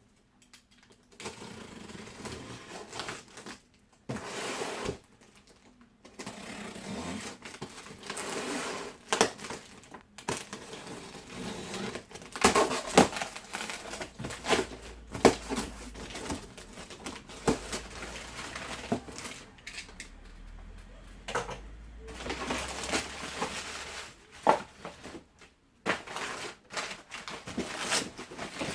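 Packaging being handled during unboxing: irregular rustling and scraping of cardboard and wrapping, broken by sharp knocks and clicks, with short pauses between.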